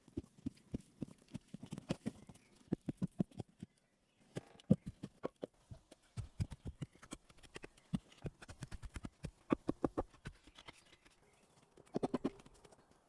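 Rapid, irregular series of knocks and taps, several a second, with a short pause about four seconds in.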